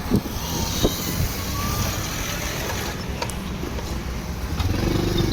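Motorcycle engine running while riding on the road, with wind and road noise. The engine note grows louder and rises slightly near the end.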